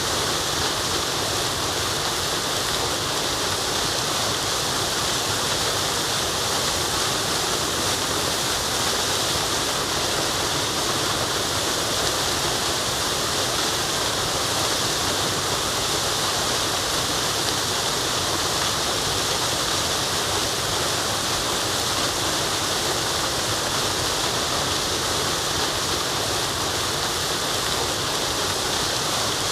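Waterfall rushing, a steady even roar of falling water with no change.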